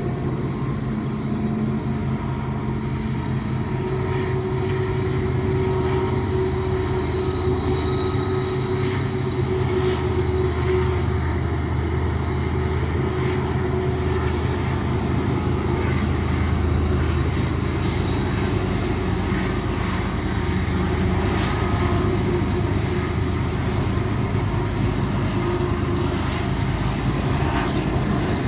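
Freight train rolling past: diesel locomotive engines running with a steady low drone, and the wheels giving a thin, high, sustained squeal over the constant rumble of the cars.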